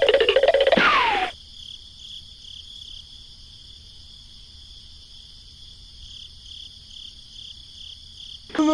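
Crickets chirring steadily at a high pitch. For about the first second a loud wavering tone covers them and ends in a falling glide, and near the end a loud voice-like sound begins.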